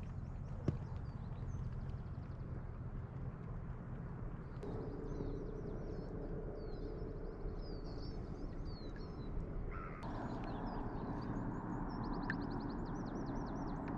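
Small birds chirping and singing, with quick rising and falling notes and a rapid trill near the end, over a steady outdoor background hiss.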